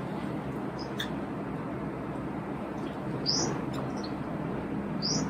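A small bird chirping: a few short, high, rising chirps about two seconds apart, over a steady low room hum.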